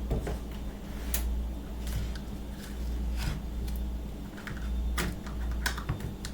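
Scattered light clicks and knocks from an ice cream tub being handled and its lid opened, over a steady low hum.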